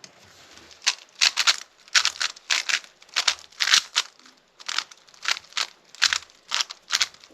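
Rubik's cube being turned layer by layer in a solve: a run of sharp plastic clacks, about three a second, starting about a second in.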